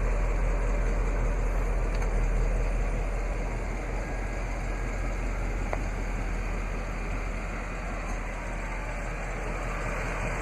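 Steady low rumble of vehicle noise with no distinct events.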